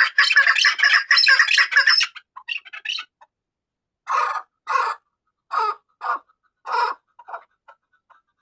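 Chukar partridge calling: a rapid run of repeated chuk notes for the first two seconds, then, after a short pause, a series of separate calls about half a second to a second apart, trailing off into softer notes near the end.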